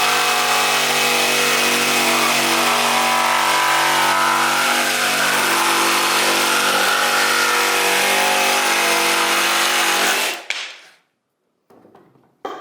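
Ryobi R18JS7-0 18V cordless pendulum jigsaw cutting through wood at its highest speed. It runs at one steady pitch for about ten seconds, then stops and winds down.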